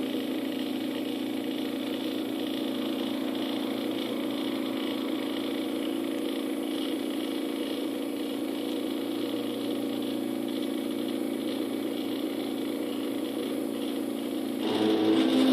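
Stepper motors of a hobby CNC machine driving the gantry as a taped-on Sharpie traces a bracket outline: a steady whine of several held tones. Near the end the whine gets louder and its tones shift as the machine changes moves.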